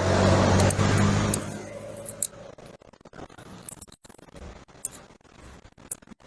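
A motor vehicle's engine running close by, loud at first and fading away after about a second and a half, followed by scattered light clicks.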